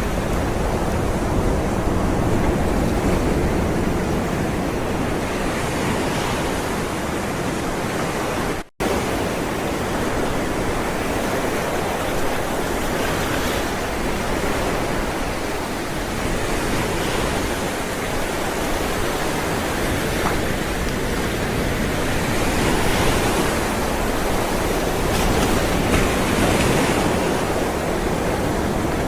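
Ocean waves rolling onto shore: a steady wash of surf that swells and eases every few seconds. About nine seconds in, the sound cuts out for an instant.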